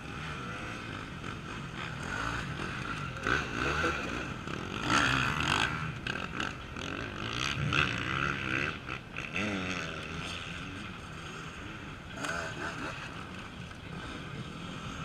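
Off-road racing motorcycle engines revving, their pitch rising and falling repeatedly in the middle, over the steady hum of more bikes running.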